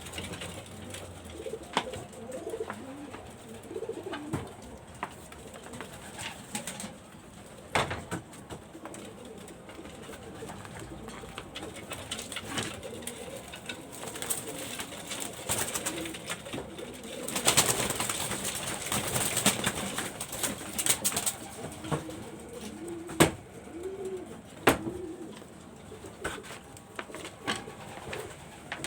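Pigeons cooing in low, rounded calls, with scattered sharp knocks and clicks and a few seconds of loud rustling noise about two-thirds of the way through.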